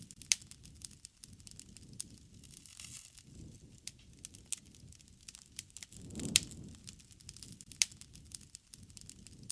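Wood fire crackling, with irregular sharp pops of burning wood, three of them louder than the rest, over a low soft rumble that swells and fades every few seconds.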